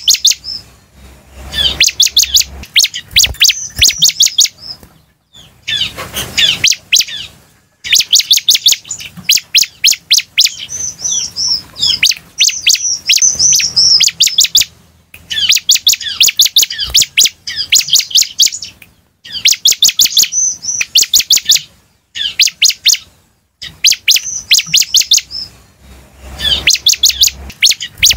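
Bar-winged prinia (ciblek) singing: trains of rapid, sharp, high chips mixed with higher twittering, each train a second or three long with short pauses between.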